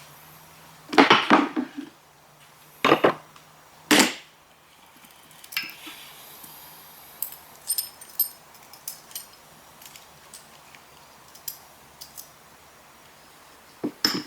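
Metal transmission parts and hand tools clanking during a gearbox teardown. A cluster of heavy knocks comes about a second in, with single loud ones around three and four seconds in, then lighter metallic clicks that ring.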